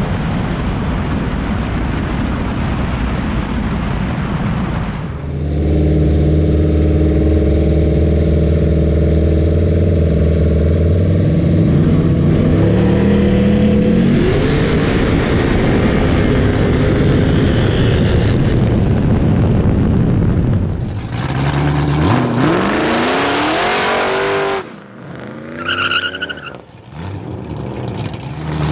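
Street cars' engines racing: a loud, steady engine drone, then engines revving and accelerating with rising pitch, in several separate runs.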